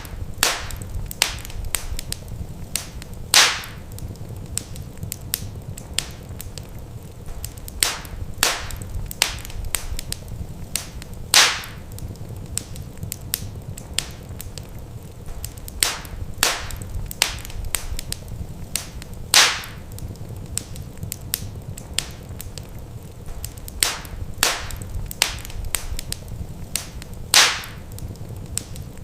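Wood fire crackling in a fireplace: frequent sharp pops and snaps of burning logs over a steady low rumble. The pattern of loud pops repeats about every eight seconds, as in a looped recording.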